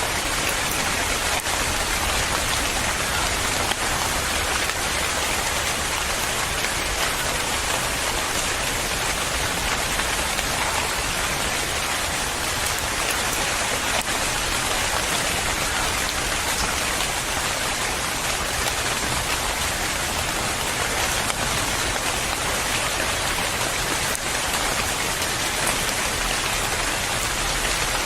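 Steady rain falling, a dense even hiss of many drops striking a surface.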